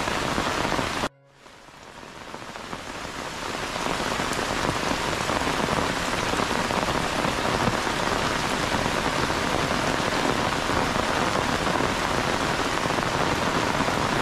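Heavy rain pouring steadily. About a second in, the sound cuts out suddenly and fades back up over the next few seconds.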